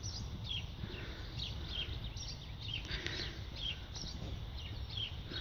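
Small birds chirping, short high falling notes repeated a few times a second, over a steady low rumble of outdoor noise.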